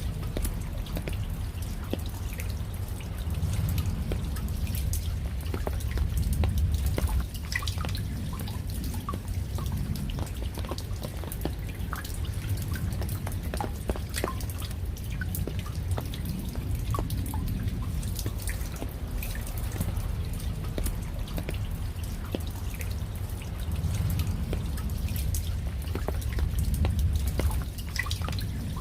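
Raindrops falling and dripping as many separate, irregular drops, over a steady low rumble that swells twice.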